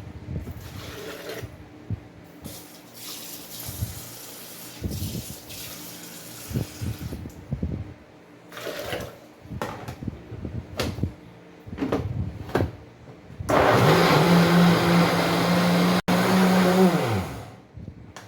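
Scattered knocks and clatter of kitchen handling, then, near the end, an electric blender runs loudly for about four seconds and winds down, its pitch falling as it stops.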